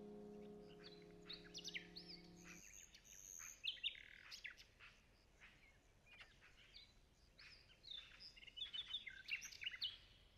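Small songbirds chirping and calling in short, quick notes and trills, several calls overlapping at times.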